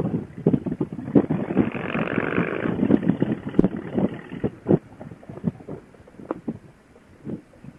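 Wind rushing and buffeting on a motorcycle rider's helmet intercom microphone at riding speed, coming in irregular gusts with a stronger swell about two seconds in, heard through the narrow, muffled sound of a Bluetooth headset.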